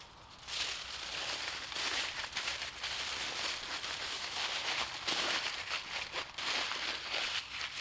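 Continuous rustling and crackling noise that rises and falls unevenly, with no clear rhythm.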